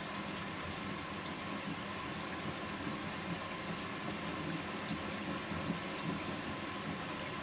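Bosch WAN28220FF washing machine early in a synthetics 40 cycle: a steady rush of water with a faint steady hum, as when the machine is taking in water.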